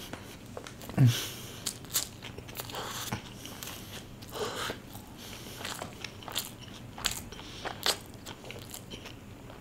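Close-miked biting and chewing of a chowmein burger with an aloo patty: soft crunches and wet mouth clicks, with a short falling hum about a second in.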